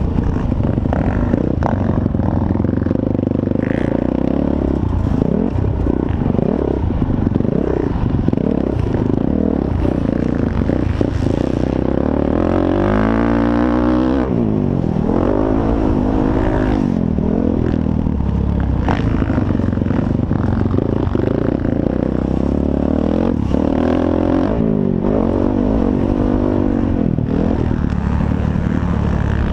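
Motocross bike engines revving hard and easing off again and again, the pitch rising and falling with the throttle over a steady loud rumble.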